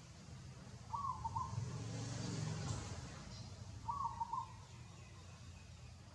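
A bird calling twice, about three seconds apart, each a short call of a few quick notes. A swell of low rumbling noise rises and fades between the calls.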